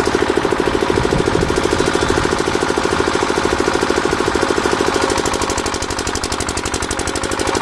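A small engine running steadily with a rapid, even knocking beat.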